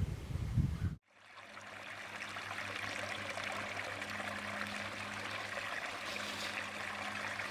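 Steady running water, like a stream trickling, fading in after an abrupt cut about a second in, with a faint low hum beneath.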